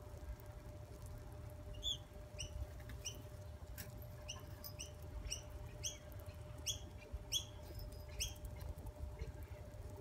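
A bird giving short, high chirps, about a dozen of them at irregular intervals, from about two seconds in until near the end, over a low rumble.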